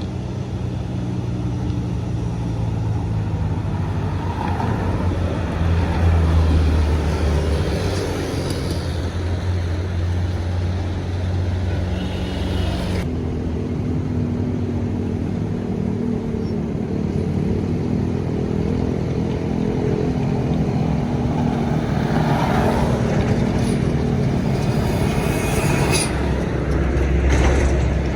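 Engines of large road vehicles such as buses and trucks running close by, a steady low engine hum with rising and falling intensity. The sound changes abruptly about 13 seconds in.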